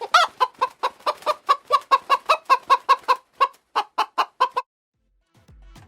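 Chicken clucking: a fast, even run of short clucks, about five a second, that stops about four and a half seconds in.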